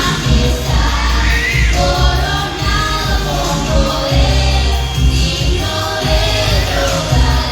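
Live gospel worship music: voices singing in Spanish over a band with a strong, steady bass.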